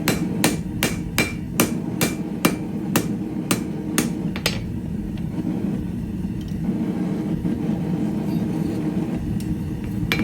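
Hand hammer striking 3/8 inch square steel stock on an anvil while forging it, a little over two blows a second with a bright ring to each, for about four and a half seconds, then stopping; one more blow comes at the very end. A steady low rumble runs underneath throughout.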